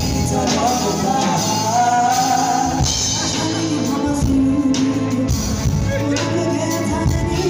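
A band playing a song live with a singer's melody over it, at a sound check.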